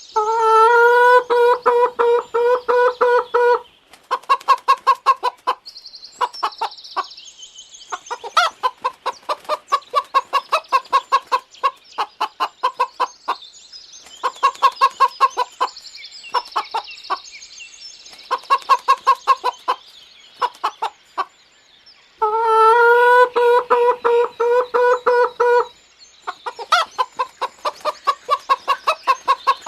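Chickens: a rooster crows twice in long held calls, near the start and about 22 seconds in, and between the crows hens cluck in rapid runs.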